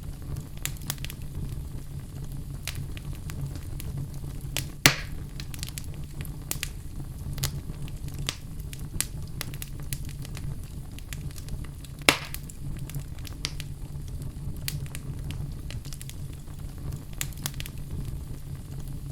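Wood fire burning in a fireplace: a steady low rumble of flames with frequent small crackles, and two loud sharp pops, one about five seconds in and another about twelve seconds in.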